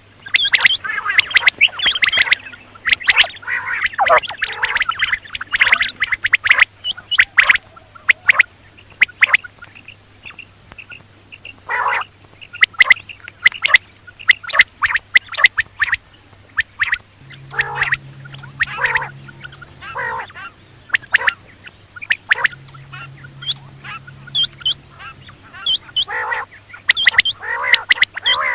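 Quail calling: many short, sharp calls crowded together for about the first six seconds, then scattered calls. A steady low hum runs underneath, and a low drone comes in twice for a few seconds in the second half.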